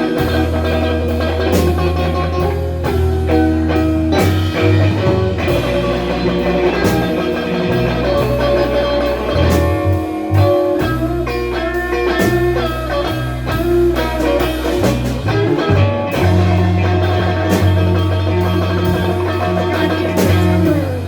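Live blues band playing an instrumental break: electric guitar lead with held and bent notes over bass and drum kit. The guitar is tuned off standard pitch, judged out of tune, somewhere between B and B flat.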